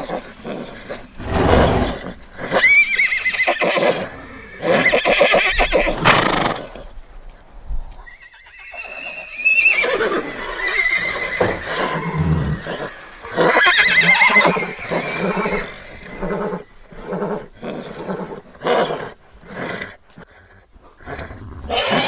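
Horses neighing again and again: several high, wavering whinnies that fall away in pitch, with shorter, rougher calls in between.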